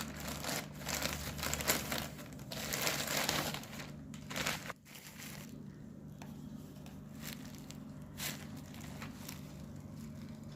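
Crinkling and rustling of wrapping being handled, plausibly a new book being unwrapped, for about the first five seconds. It then drops to a quieter stretch with a few soft ticks over a steady low hum.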